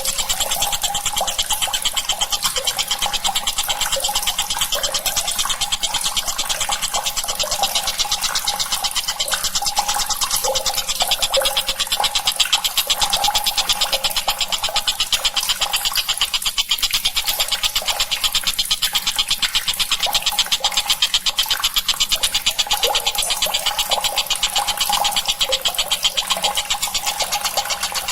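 Tengkek buto, a kingfisher, calling in a continuous, very rapid buzzing chatter that holds steady throughout.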